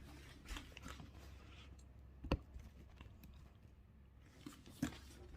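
Handbag being handled: scattered rustling and small clicks, with a sharp knock a little past two seconds in and another near the end, likely from the strap hardware.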